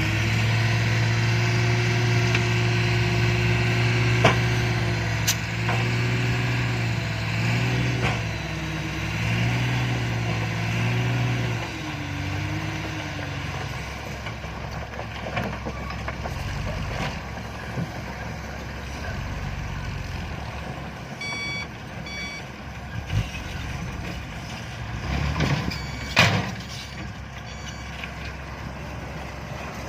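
Dump truck running, its engine note steady at first and then wavering up and down before dropping back. About two thirds of the way through, a short run of reverse-alarm beeps, and a few seconds later a sharp burst of noise.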